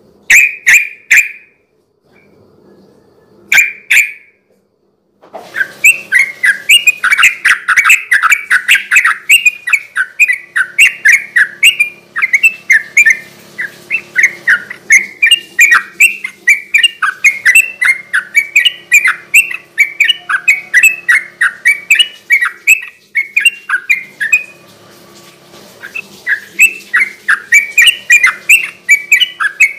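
Yellow-vented bulbul singing a rapid, chattering song. Two short phrases come first, then a long unbroken run of quick notes from about five seconds in, easing off briefly near the end before picking up again.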